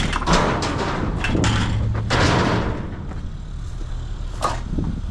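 A Caterpillar 306 mini excavator's diesel engine runs steadily while its bucket scrapes and crunches through demolition debris for about three seconds. A single sharp knock follows about four and a half seconds in.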